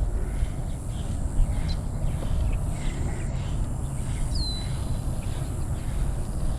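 Steady low rumble under a steady high insect buzz, with a few faint ticks and one short falling bird chirp about four and a half seconds in.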